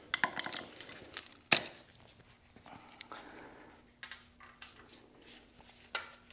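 Small metal tools clinking and rattling as pieces are handled and sorted in a tool set, in a string of separate clicks with one sharp clink about a second and a half in.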